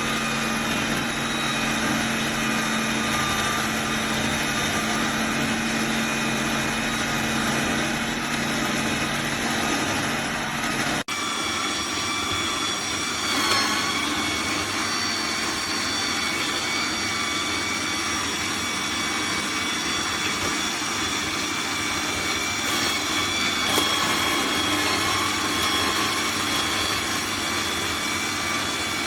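Electric juicer motor running steadily with a high-pitched whine. It breaks off for an instant about eleven seconds in, then carries on with a slightly different whine.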